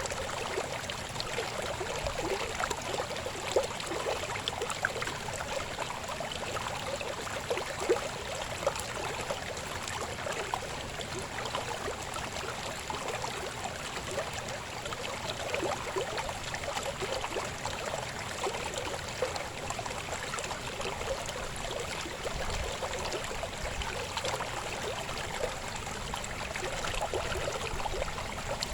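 Small river flowing over stones: a steady babbling and gurgling of water, with little splashes throughout.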